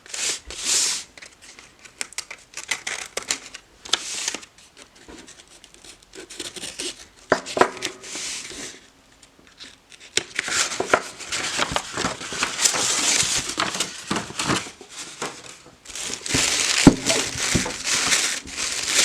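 Paper wrapping crinkling and rustling as it is slit open with a craft knife and unfolded, in irregular bursts that become busier in the second half.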